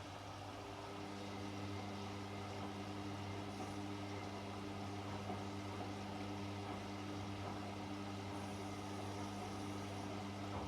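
Washing machine running: a steady motor hum, joined about a second in by a second, higher-pitched motor hum as the level rises slightly.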